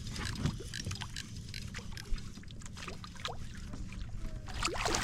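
Water lapping and splashing against a fishing kayak's hull, with many small scattered clicks and knocks, over a steady low background noise.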